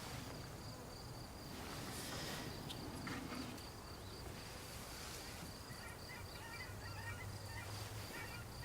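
Wetland ambience: a steady high insect trill throughout, with faint twittering bird calls starting about halfway through, over a low rumble.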